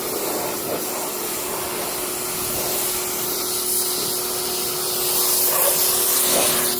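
Electric pressure washer running and spraying water onto car carpet: a steady hiss of spray over a constant motor hum, growing a little louder about five seconds in.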